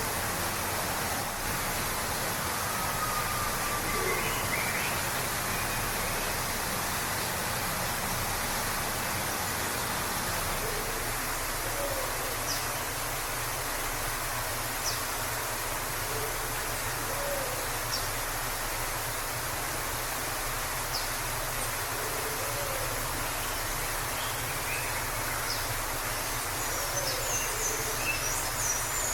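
Waterfall rushing steadily. Faint bird calls sound over it: a low call repeated every couple of seconds in the second half, and brief high chirps that come more often near the end.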